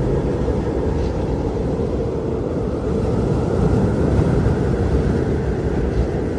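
Blizzard wind blowing in a deep, steady rush, swelling slightly a few seconds in.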